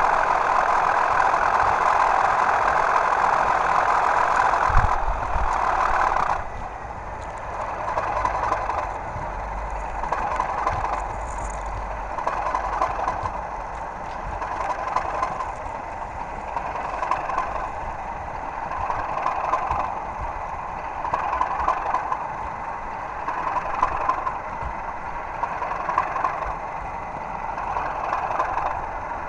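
Simulated diesel engine sound from two model Class 37 locomotives running double-headed, played through their on-board sound systems. It is loud and steady for the first six seconds, with a low thump about five seconds in, then drops to a softer sound that swells and fades about every two seconds.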